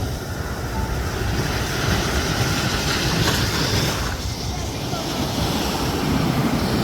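Ocean surf washing onto the sand, swelling about a second and a half in and easing after about four seconds, with wind buffeting the microphone as a low rumble.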